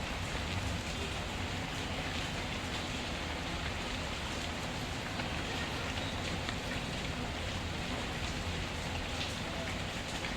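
Steady rain falling on a surface, a continuous even hiss, with small scattered crackles and pops from a wood fire.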